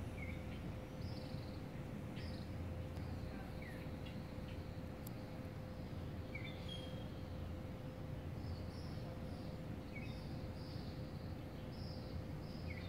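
Birds chirping in short, scattered calls every second or so, over a steady low rumble and a faint steady hum.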